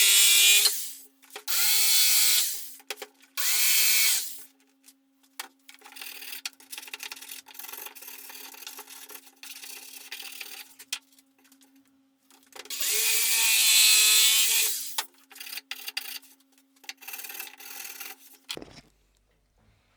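Power tool working birch plywood in four bursts of a couple of seconds each, its motor pitch dipping as it bites. Quieter scraping and rubbing of wood in between, over a steady low hum; everything cuts off suddenly near the end.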